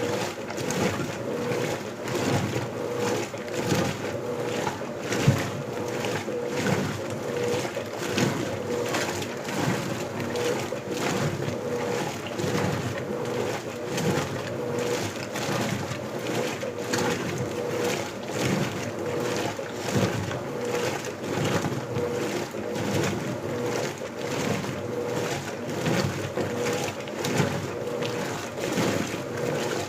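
Electrolux LBU15 top-loading washing machine agitating a load of clothes in water on turbo agitation. The motor hums in short, regular pulses as the agitator swings back and forth, with water sloshing.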